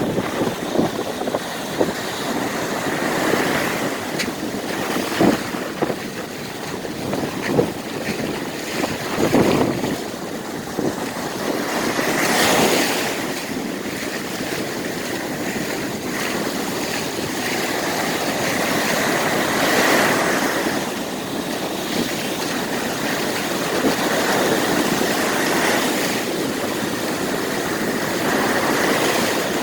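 Rough ocean surf breaking and washing in, with strong wind buffeting the microphone. Heavier waves crash about twelve and twenty seconds in.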